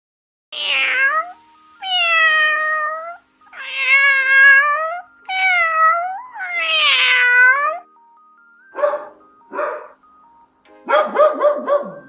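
A domestic cat meows four times, long drawn-out meows that bend in pitch, over faint background music. About three seconds later, short, sharp dog barks begin, with a quick run of barks near the end.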